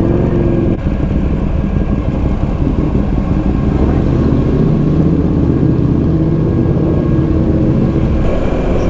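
Buell Lightning XB12SCG's air-cooled V-twin motorcycle engine running at low speed, heard from on the bike, with a low rumble and a slight rise in engine pitch midway.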